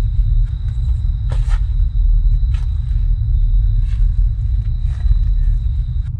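A loud, steady low rumble with a thin, steady high whine over it. Faint short knocks come about once a second, and the high whine cuts off near the end.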